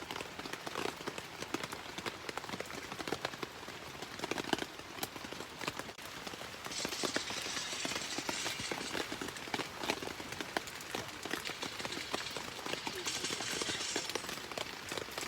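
Rain falling, heard as many small irregular taps, with a steady high hiss that comes in about seven seconds in.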